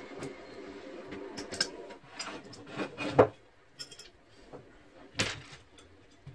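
A few separate sharp knocks and clatters, the loudest about three seconds in, over a low hum that drops away after the first two seconds.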